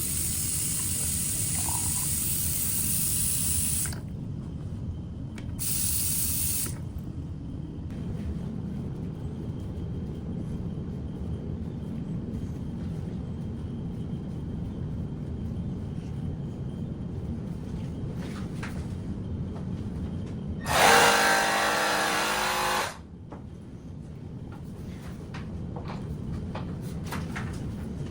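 Steady low road rumble of a vehicle being driven, heard from inside. Two hissing noises come in the first few seconds, and about two-thirds of the way through a louder, tone-rich sound lasts about two seconds.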